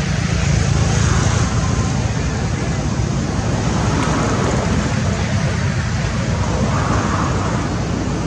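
Steady road-traffic noise: a continuous rumble of passing vehicles.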